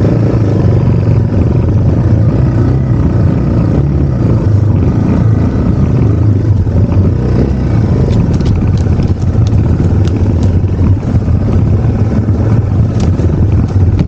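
Yamaha TW200's air-cooled single-cylinder four-stroke engine running steadily at low speed while the bike is ridden. From about eight seconds in, scattered sharp ticks and snaps come through over the engine.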